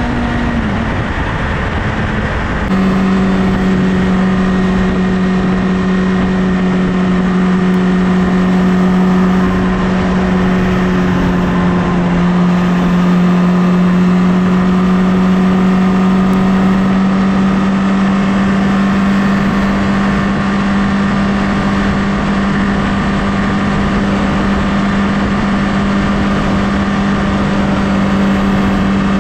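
Honda CBR1000RR inline-four engine running at a steady highway cruise, with wind noise rushing over it. Near the start the engine note drops, then it holds an even pitch, dipping only slightly about halfway through.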